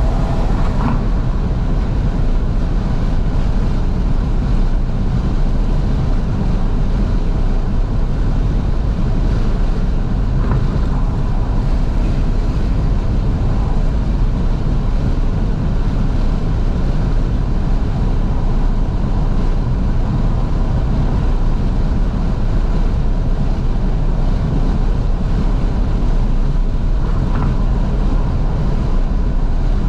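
Wind buffeting and road noise through the fully open windows of a moving 2012 Fiat 500S, heard inside the cabin as a loud, steady roar.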